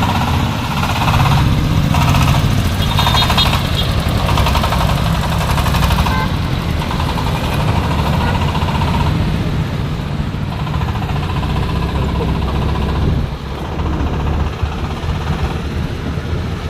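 Diesel-driven corn sheller for unhusked corn running, powered by a 26 HP Dong Feng single-cylinder diesel engine, with a steady rapid knocking beat. The sound eases a little about thirteen seconds in.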